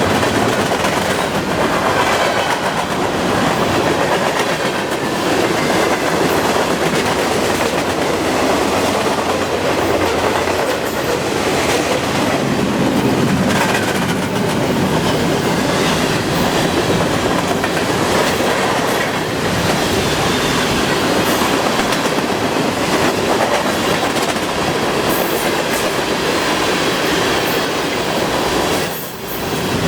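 Long CN freight train rolling past at about 42 mph: a steady loud rush of steel wheels on rail with scattered clicks. The level dips briefly near the end.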